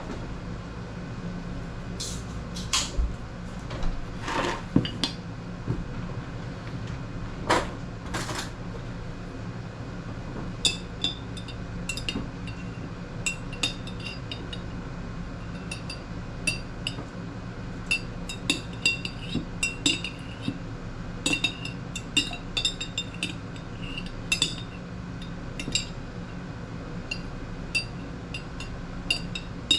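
Metal utensil clinking against dishes and glass: a few soft knocks and rustles at first, then many quick, sharp clinks through the second half, over a steady low hum.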